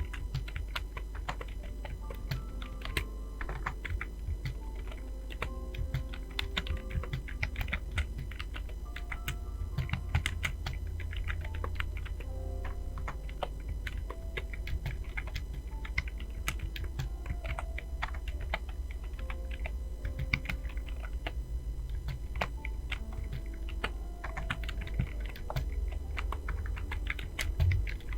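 Fast, continuous typing on a computer keyboard: a dense, irregular stream of key clicks with no pauses longer than a moment.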